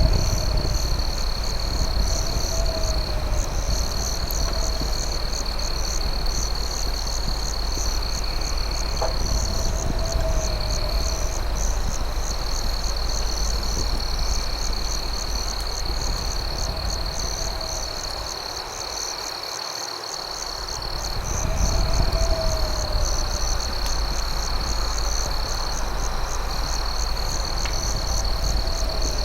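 Night chorus of crickets: a steady high trill with a faster pulsing chirp above it. A short, lower call recurs every few seconds, over a low rumble that fades briefly about two-thirds of the way through.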